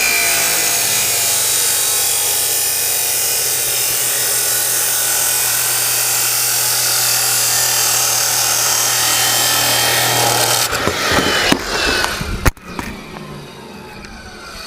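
Chop saw cutting through a steel exhaust tip pipe with a steady, loud grinding whine. The cut ends and the motor stops about eleven seconds in, followed by some clatter and a sharp knock.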